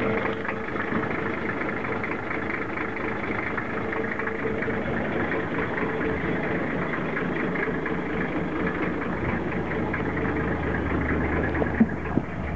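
1991 Nissan Patrol's non-turbo diesel engine idling steadily shortly after a cold start. Two short sharp clicks near the end.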